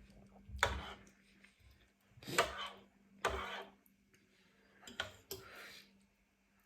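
Close-up eating sounds from a bowl of spicy noodles and rice cakes: about five short, noisy mouthfuls a second or so apart.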